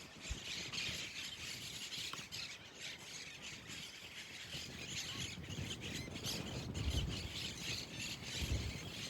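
Birds chattering and squawking steadily, with a few short, dull low rumbles near the end.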